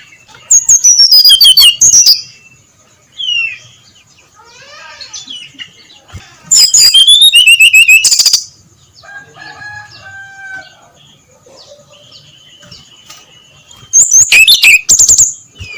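Brown-chested jungle flycatcher singing in three loud bursts of rapid, high notes that sweep downward, each lasting about one and a half to two seconds, with softer scattered chirps between the bursts.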